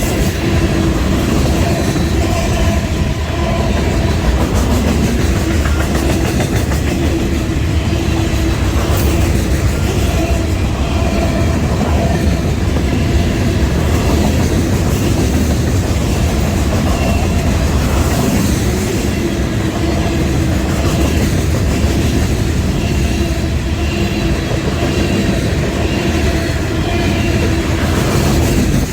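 Union Pacific freight train's cars rolling past at speed: a steady loud rumble with wheels clattering over the rail joints and a faint wheel squeal.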